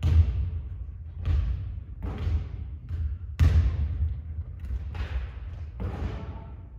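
Basketballs bouncing and thudding in a gym, about seven irregular thuds over several seconds, each with a short echo.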